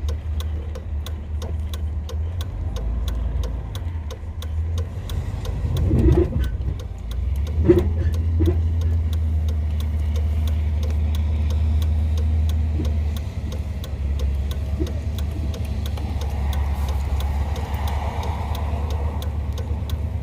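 Truck engine running steadily, heard from inside the cab, with a fast even ticking of about four a second over it. A couple of knocks come about six and eight seconds in.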